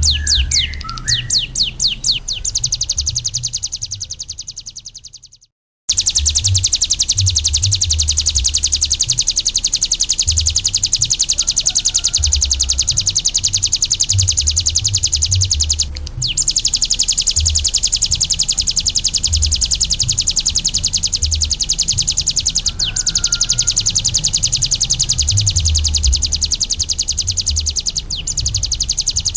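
Ciblek gunung, a prinia, singing a long, very rapid, buzzy trill of high notes. The song fades out about five seconds in and starts again after a moment of silence, with an uneven low rumble underneath.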